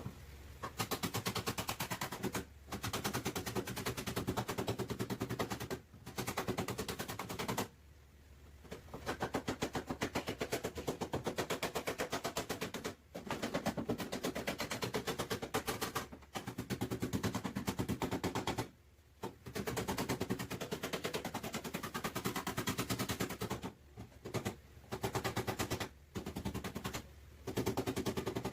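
Hand-held pneumatic body-shop tool rattling rapidly against car sheet metal in repeated bursts of one to three seconds with short pauses, as the damaged back panel is worked.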